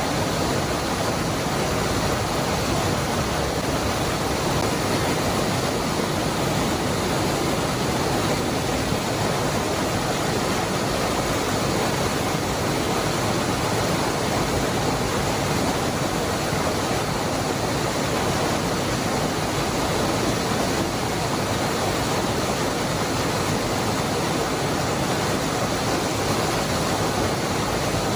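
The Cascada del Hervidero waterfall: water falling and rushing in a steady, unbroken wash of noise that does not change.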